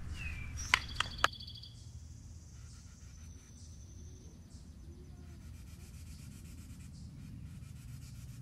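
Backyard ambience. A bird gives a short falling whistle, then a fast trill on two pitches. Three sharp clicks about a second in are the loudest sounds, over a steady low hum.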